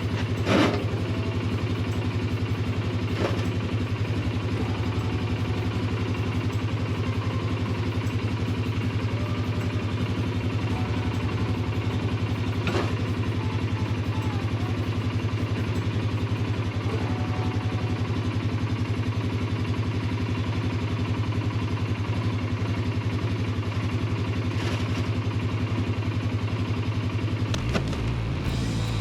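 Polaris Sportsman 570 ATV's single-cylinder engine idling steadily, with a few sharp clicks or knocks; the low engine note shifts near the end.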